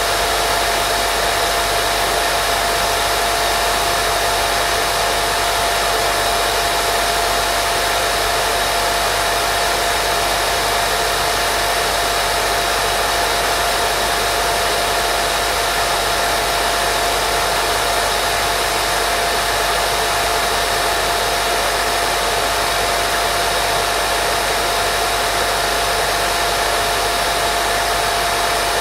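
Steady white noise for baby sleep: an unbroken hiss, heavier in the upper range, with a thin steady tone running through it.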